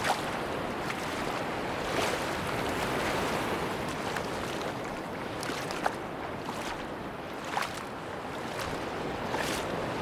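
Sea surf washing on a beach, a steady rushing noise with a few faint short clicks scattered through it.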